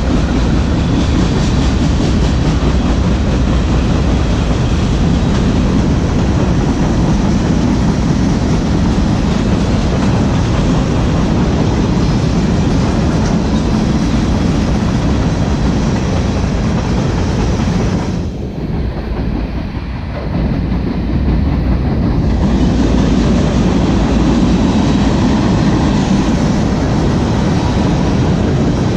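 Freight train rolling past on the rails, a loud, steady wheel noise that dips for a few seconds about two-thirds of the way through.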